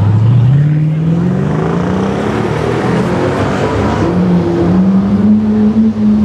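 Sports car engine accelerating hard, its pitch climbing steadily for the first few seconds and then holding roughly level.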